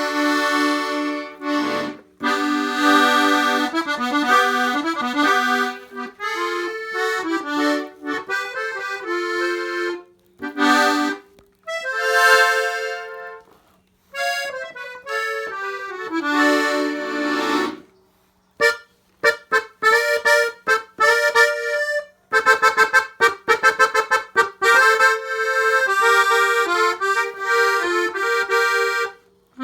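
Gabanelli accordion played solo: melodic phrases over chords, broken by brief pauses between phrases, with a run of quick staccato notes past the middle.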